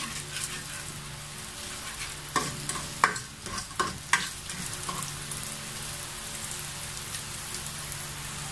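Sliced onion and whole peppercorns sizzling in hot oil in a pot, stirred with a utensil that clicks and scrapes against the pot several times in the first half.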